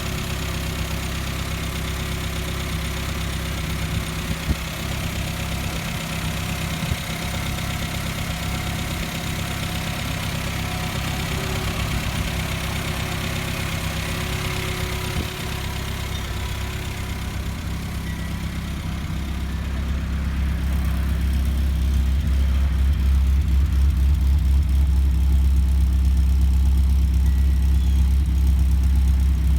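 1959 Morris Minor Traveller's 948 cc A-series four-cylinder engine idling steadily soon after a cold start. About twenty seconds in, the sound grows louder and deeper.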